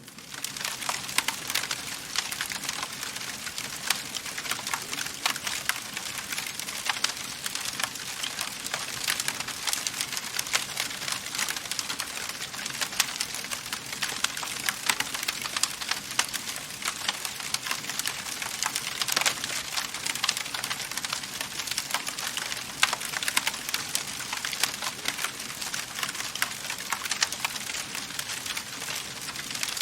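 Wood fire burning in a fireplace, crackling steadily with a dense run of small pops and snaps.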